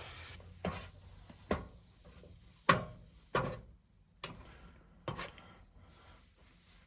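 A series of about six sharp knocks and clunks, roughly one a second.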